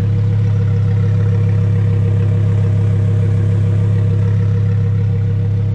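Twin-turbocharged 2018 Audi R8's 5.2-litre V10 idling steadily.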